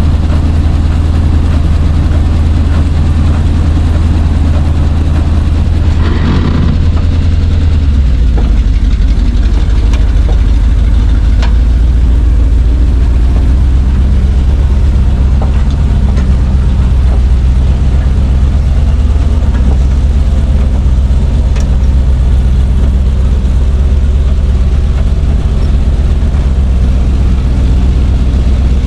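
Chevrolet C60 wrecker's engine idling steadily and loudly, settling to a slightly lower idle speed about eight seconds in, with a brief clunk near six seconds.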